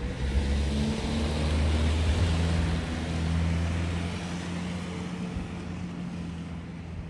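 A car passing close by, its engine hum and tyre noise loudest about two to three seconds in, then fading away.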